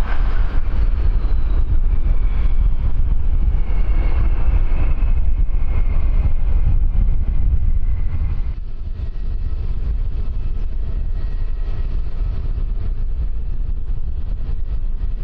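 Aircraft engine whine falling slowly in pitch as the plane passes, over a heavy wind rumble on the microphone. The whine fades at about eight seconds, leaving a fainter, steadier engine hum under the wind.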